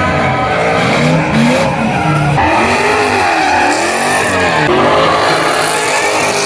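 A car drifting: the engine revs rise and fall repeatedly while the tyres squeal, with the squeal getting louder about two and a half seconds in.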